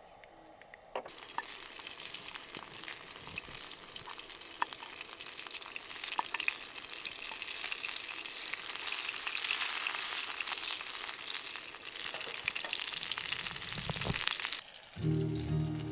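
Beef filet sizzling and spitting on a hot cooking surface. The sizzle starts suddenly about a second in, swells, and cuts off abruptly near the end.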